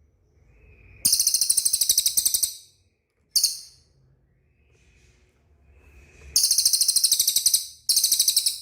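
Cililin bird singing: very high-pitched, rapid trills of evenly repeated notes, about a dozen a second, in four bouts, the first and third about a second and a half long and the second very short.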